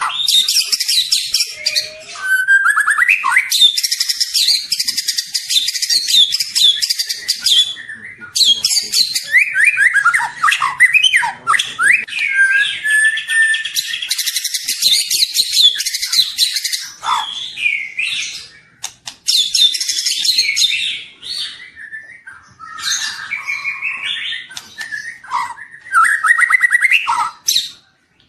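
White-rumped shama (murai batu), a young bird in speckled trotol plumage, singing a loud, fast, varied song of rapid high chirps, whistles and gliding notes, in long bursts broken by short pauses.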